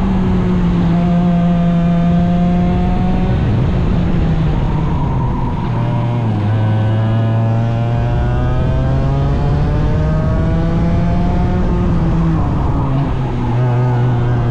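Small 100cc racing engines running hard at a race meeting, pitch rising and falling as they rev through the gears, with a drop to a lower, steadier note about six seconds in.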